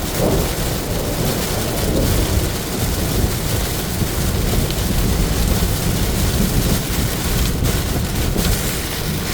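Heavy rain hitting a moving vehicle, mixed with steady road and tyre noise while driving on a wet highway.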